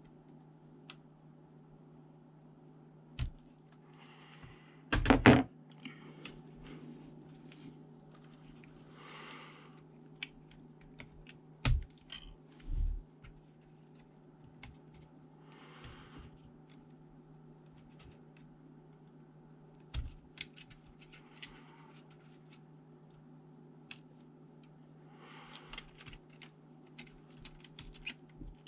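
Small tools and laptop parts being handled during a disassembly: scattered clicks, taps and knocks, with a few louder thumps, the loudest about five seconds in, and brief rustles. A steady low hum runs underneath.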